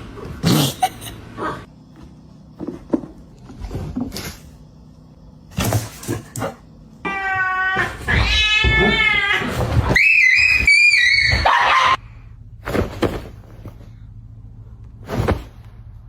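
A domestic cat yowling in one long, drawn-out call for about five seconds in the middle, its pitch wavering and jumping higher partway through. Scattered sharp knocks and thumps come before and after it.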